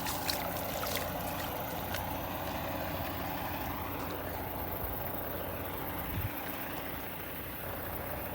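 Semi truck's diesel engine running steadily at low speed while its tyres wade through floodwater, with water sloshing and gurgling around the wheels.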